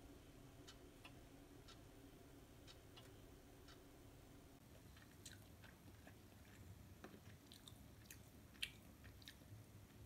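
Faint chewing close to the microphone: scattered soft clicks and crunches over quiet room tone, one a little louder near the end.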